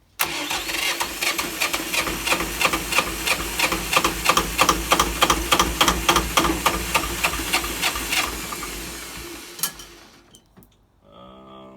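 Electric starter cranking the Jiangxi tractor's two-cylinder JT diesel, with even beats about four a second for about nine seconds; the engine does not catch, and the cranking fades and stops about ten seconds in. It has not been started in a while.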